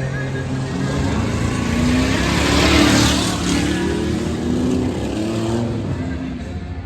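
Monster truck engine revving, its pitch rising and falling repeatedly, swelling loudest about halfway through.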